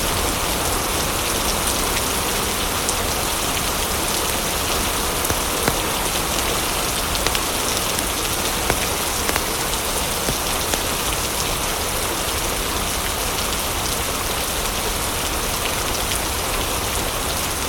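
Steady rain falling in an even, dense hiss, with scattered sharp clicks and ticks through it.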